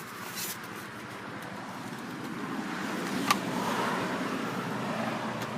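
Outdoor road-traffic noise with some wind on the microphone, swelling and easing again, with a single sharp click about three seconds in.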